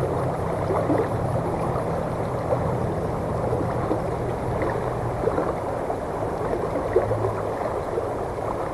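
Creek water running over rocks, a steady rush with small gurgles.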